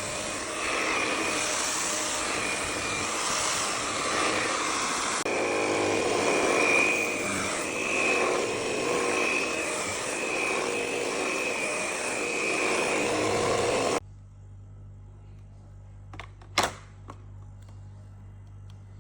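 Polaris PVCS 4070 WiFi IQ Home upright vacuum cleaner running, a steady motor whine with a high tone over a hiss of air. It stops abruptly about fourteen seconds in, leaving a faint low hum and a couple of sharp clicks.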